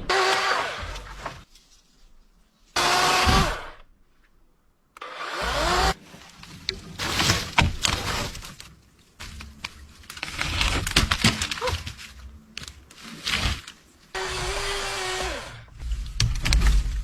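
Wood being worked in short, separate bursts: cracks, knocks and rustling as branches are broken and cut, with a steady whine from about fourteen seconds in.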